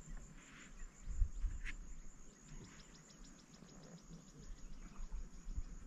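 Insects chirring in a steady high-pitched drone, with a few dull low bumps and a brief quick run of small clicks about two and a half seconds in.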